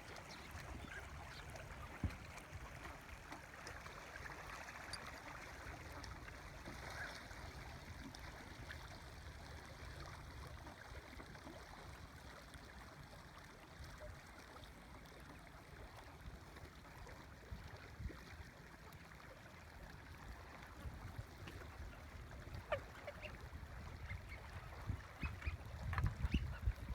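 Swans calling faintly, short honking calls here and there, more of them near the end, over a steady low rumble of wind and water.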